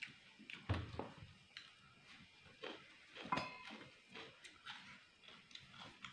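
Close-miked chewing and mouth sounds of someone eating: an irregular run of small clicks and crunches, louder about a second in and again just past three seconds.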